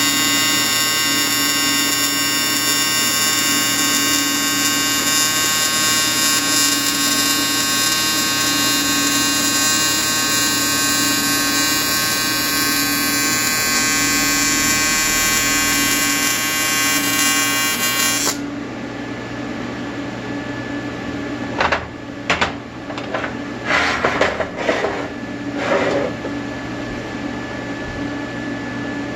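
Welding arc buzzing steadily, then cutting off suddenly about two-thirds of the way through. A handful of short, harsh noise bursts follow near the end.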